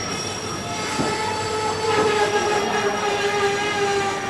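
Electric locomotive hauling a passenger express train as it approaches, with several sustained high-pitched tones held over the running noise for several seconds.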